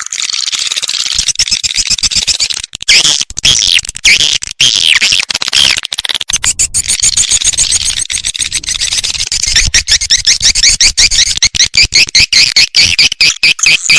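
Swiftlet lure-call recording: high-pitched edible-nest swiftlet chirping and twittering. It repeats rapidly, settling in the second half into a fast, even run of chirps about four to five a second.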